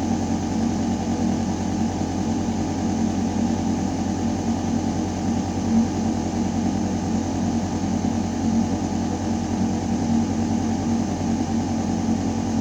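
Building ventilation system running steadily: a constant mechanical hum with air rushing through metal ductwork.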